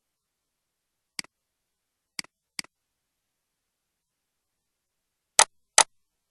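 Five short, sharp clicks against dead silence: three softer ones in the first half, then two louder ones less than half a second apart near the end.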